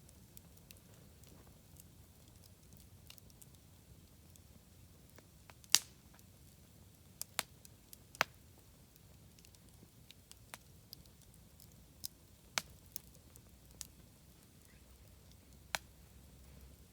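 Wood campfire crackling: irregular sharp pops and snaps, the loudest about six and eight seconds in, over a faint low rumble of the burning fire.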